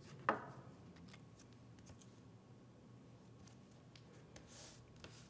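Quiet handling of paper craft pieces on a table: a sharp click about a third of a second in, a few faint ticks, and a brief soft rubbing near the end.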